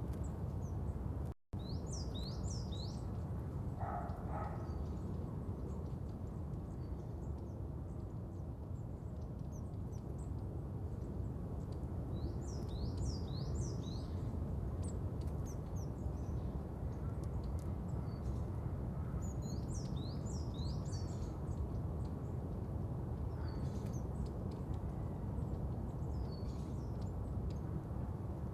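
Birdsong: small birds chirping in short clusters every several seconds over a steady low outdoor rumble, with a brief dropout to silence about a second and a half in.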